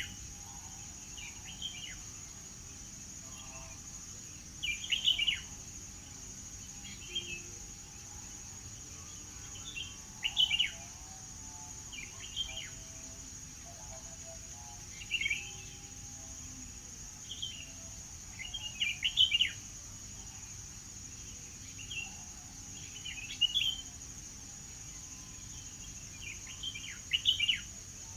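A songbird singing short, quick chirping phrases, one every two to three seconds, about a dozen in all. A steady high-pitched insect-like drone runs underneath.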